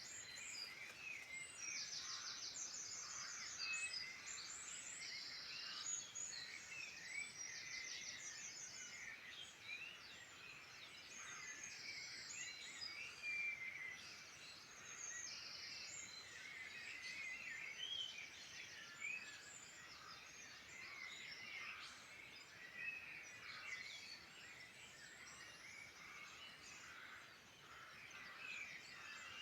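Several wild birds singing at once in a dense chorus of chirps, short whistles and rapid high trills, faint and steady throughout.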